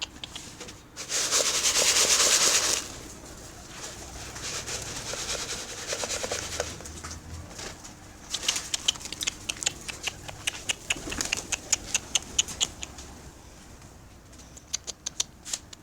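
Domestic pigeons' wings flapping: a loud burst of flapping about a second in, then long runs of fast wing claps from about eight seconds on.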